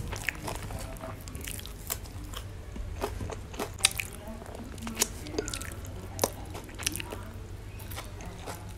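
A person biting and chewing crispy fried catfish tail fins: irregular sharp crunches and crackles between quieter chewing.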